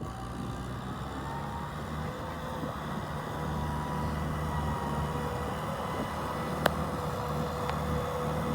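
Kubota tractor's diesel engine running steadily, with a faint whine over the low drone. There is a single sharp click about two-thirds of the way through.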